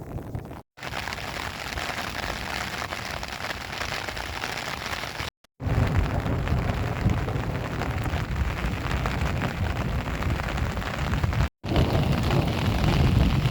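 Rain falling during a thunderstorm, a steady hiss over a low rumble. The sound drops out completely for a moment three times.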